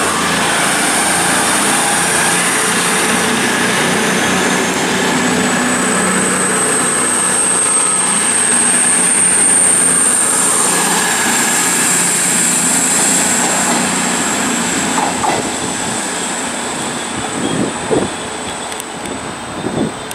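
CrossCountry Voyager diesel multiple unit passing close along the platform, its running and wheel noise loud throughout, with a high squeal that rises slightly in pitch, is loudest about halfway through, then fades. A few sharp clicks sound in the last few seconds as the noise dies away.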